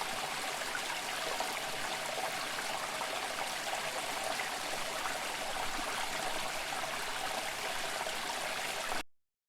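Running water of a stream, a steady rush that cuts off suddenly about nine seconds in.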